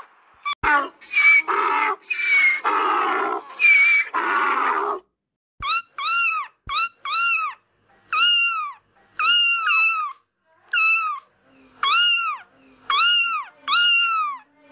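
Kitten meowing over and over: from about six seconds in, a long run of short, high mews, one or two a second, each rising then falling in pitch. Before that come a few seconds of rougher, noisier animal cries.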